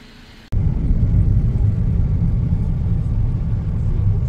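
Kei car's small engine running, a steady low rumble that starts abruptly about half a second in.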